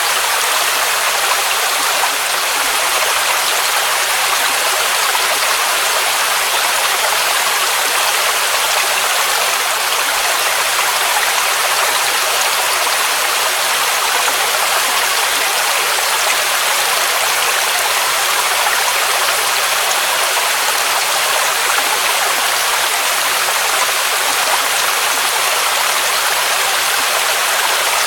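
Waterfall, water rushing steadily and evenly, a dense hiss with little deep rumble.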